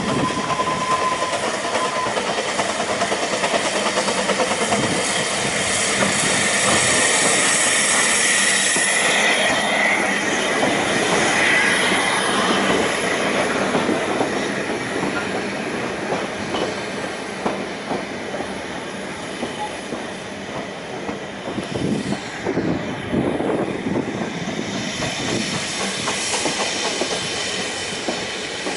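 A narrow-gauge steam-hauled passenger train rolls slowly into a station and passes close by. The wheels squeal high on the curved track for several seconds in the first half, then the carriages rattle and click over the rail joints as they go by.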